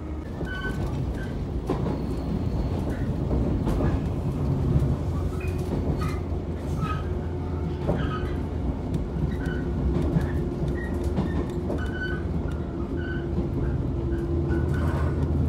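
Electric train running at speed, heard from inside the passenger car: a steady low rumble of running gear and wheels on the rails, with a steady hum and short faint squeaks now and then.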